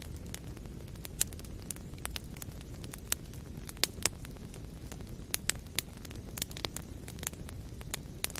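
Wood fire burning in a fireplace: a steady low rumble of the flames with frequent irregular sharp crackles and pops, a few louder pops about four seconds in and again past the five-second mark.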